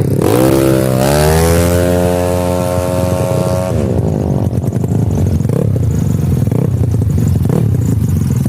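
Tuned Yamaha Mio scooter engine at a drag launch, its pitch climbing steeply for the first second and then rising more slowly under full throttle. About four seconds in, the pitch drops away as the scooter goes past.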